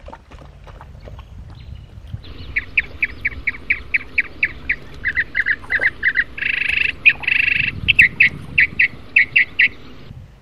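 A bird calling: a long run of short, sharp, high notes at about four or five a second, with a longer harsh, buzzy call about six seconds in before the short notes go on.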